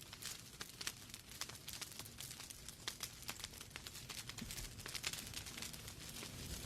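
Wood fire burning in a fireplace: logs crackling with frequent irregular sharp pops and snaps over a soft hiss.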